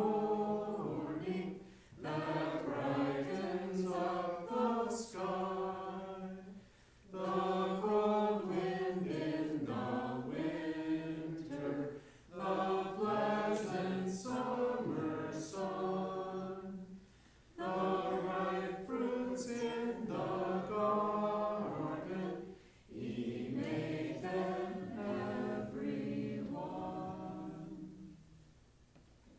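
A church congregation singing a hymn unaccompanied, in phrases of about five seconds with short breaths between them. The singing dies away near the end.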